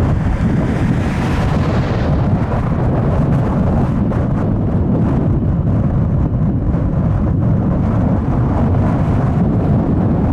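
Strong gusty wind buffeting the microphone, a loud, steady rumble. A fainter, hissier layer fades away over the first two seconds.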